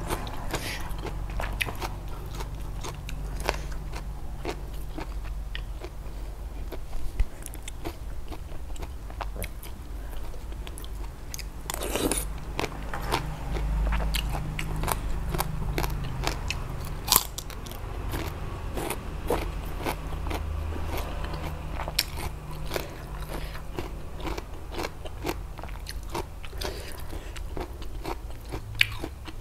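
A person chewing a mouthful of food close to the microphone, with many short crunches and wet mouth clicks, irregular through the whole stretch.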